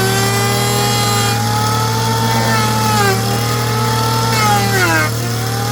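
Power drill running steadily into wood, its whine dipping in pitch twice, about three seconds in and again near the end.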